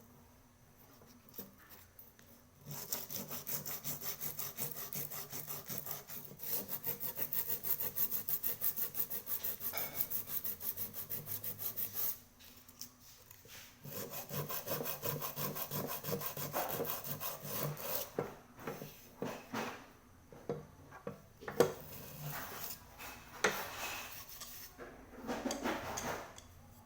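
Fast back-and-forth rasping strokes by hand on the small cooking pot being repaired, about five strokes a second, from about 3 s to 12 s. After a short pause the rubbing resumes less evenly and breaks into scattered strokes and a few sharp knocks toward the end.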